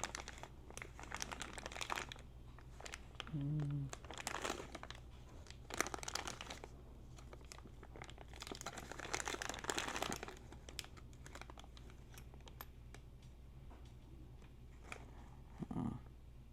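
Hand-work noise: crinkling and rustling in spells, with scattered small clicks of tools and parts being handled, over a steady low hum.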